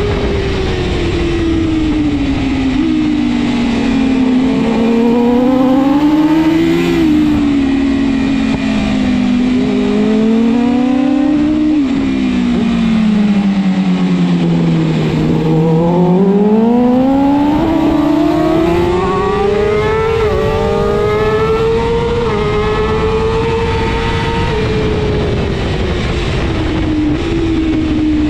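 BMW S1000RR superbike's inline-four engine at race pace, its pitch rising and falling as it accelerates and slows through corners. About halfway through, the engine note drops steadily for a few seconds as the bike brakes and downshifts, then climbs high again on the throttle.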